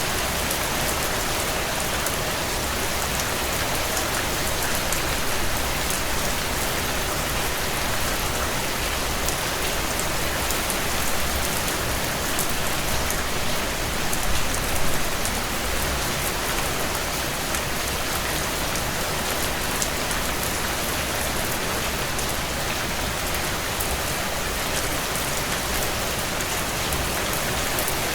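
Heavy rain drumming steadily on a tin roof, a dense patter of drops.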